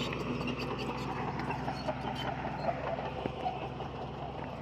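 Crawler bulldozer's diesel engine running steadily, with the clinking and clanking of its steel tracks.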